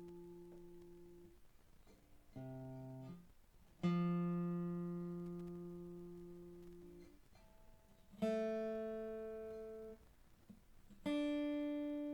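Single strings of a freshly restrung Seagull S6 acoustic guitar plucked one at a time during tuning. Each note rings and fades for a second or more before being damped, about four plucks at different pitches. The new strings are being checked for whether they are holding their tune as they stretch and settle.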